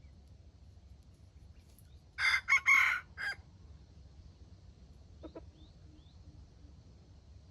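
A rooster crows once, a short clipped crow in several quick broken parts about two seconds in. A few faint clucks and chirps follow.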